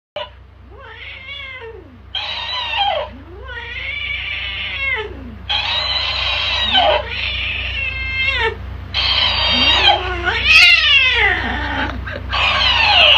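A tabby cat meowing and yowling at a talking hamster toy, which plays each call back in a higher, squeakier voice; the two take turns about four times, the cat sounding angrier as it goes.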